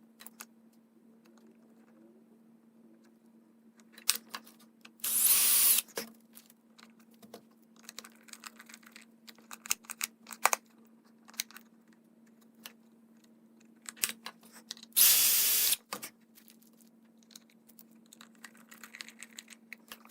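Light scattered clicks and taps of small objects being handled, over a steady faint hum. Twice, about five seconds in and again about fifteen seconds in, comes a loud hiss lasting about a second.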